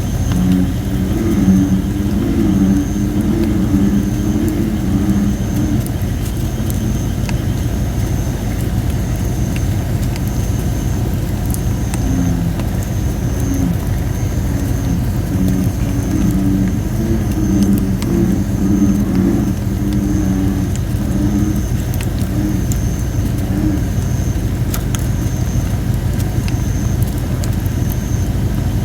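American bullfrogs calling in low, pulsing runs of croaks over a steady low rumble, while a fire of thin red robin (Photinia) wood pops now and then.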